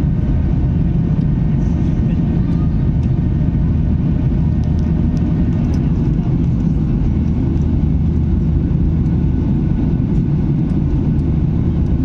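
Boeing 737-800's CFM56 jet engines running under power during takeoff, a loud, even low rumble that holds steady throughout.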